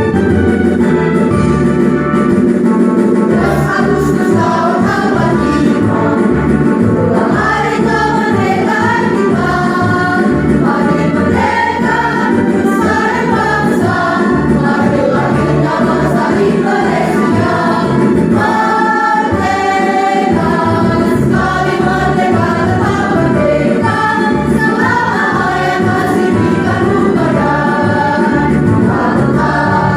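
A school choir singing in unison over instrumental accompaniment; the voices come in about three seconds in, after a short instrumental passage.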